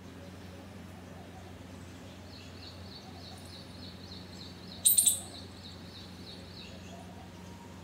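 Garden birds chirping: a quick run of faint, high, repeated chirps over a steady low hum, with a brief louder, sharper burst of high notes about five seconds in.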